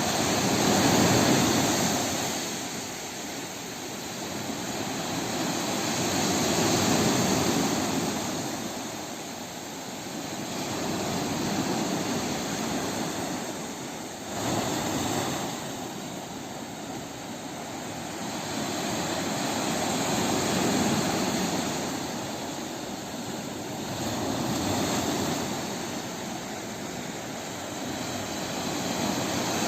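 Sea surf: waves breaking and washing in as a steady rush that swells and ebbs every few seconds.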